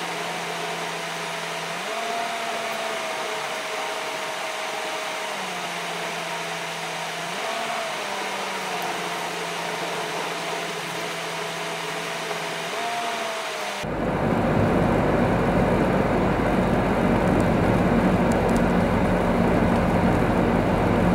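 Steady whirring road and cabin noise from a car driving on a snowy road, with faint tones that shift up and down every few seconds. About two-thirds of the way through, the noise suddenly grows louder and deeper, with a low rumble added.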